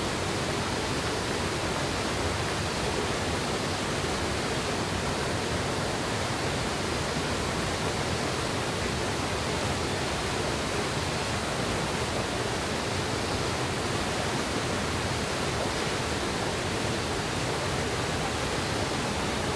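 Mountain river water rushing over rocks: a steady, unbroken rush of water.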